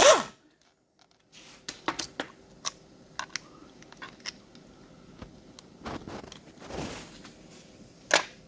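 Irregular metallic clicks and clinks of hand tools and small bolts on a 4L60E transmission as its accumulator housing is unbolted. One louder sharp clink comes near the end.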